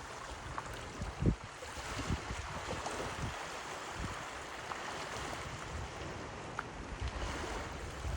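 Steady wash of water and surf on an open shore, with wind gusting on the microphone; a low thump about a second in.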